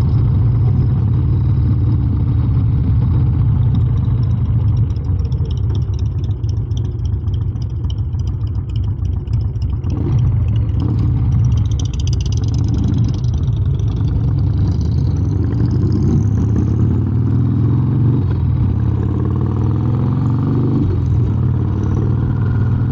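1993 Harley-Davidson Heritage Softail Nostalgia's carbureted Evolution V-twin running on the road, its engine note rising and falling in pitch in the second half as the revs change.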